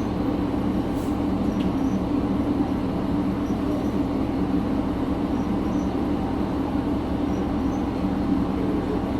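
Steady running noise of a diesel railcar heard from inside the cabin: an even engine hum with a constant low drone and no change in pitch.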